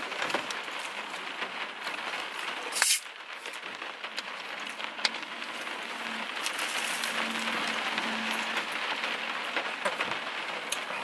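Steady rain on the roof and windows of a car, heard from inside the cabin, with scattered crunchy bites of battered fried food. One short, loud crackle stands out about three seconds in.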